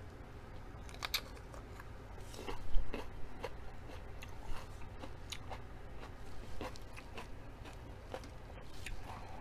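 Close-up crunching and chewing of a raw mini sweet pepper: a string of crisp crunches, the loudest about three seconds in.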